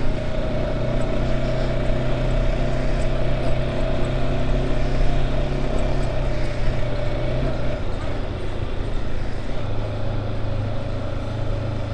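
Kawasaki ZX-10R's stock-exhaust inline-four engine running at steady revs while riding, with wind and road noise. The engine note briefly changes about two-thirds of the way through.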